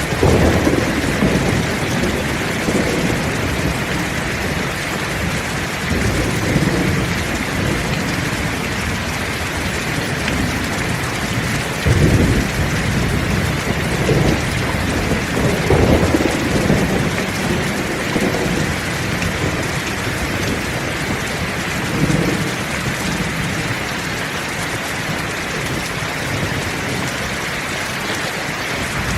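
Heavy rain falling steadily, with rolls of thunder rumbling in and out: one right at the start, a sharper one about twelve seconds in, a longer rumble a few seconds after that and a fainter one later on.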